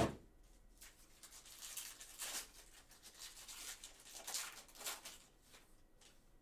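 Trading cards and pack wrappers being handled: a knock at the start, then soft rustling and sliding swishes as cards are pulled and shuffled through the hands.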